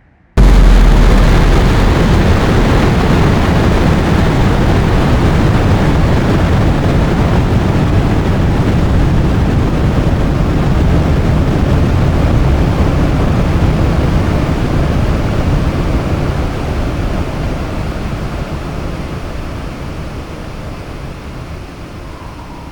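Synthesized supernova explosion built from white noise on a Hollow Sun Advanced Noise Generator: a sudden, very loud blast with a deep rumble that hits just after the start, holds, then slowly fades. A falling tone emerges near the end.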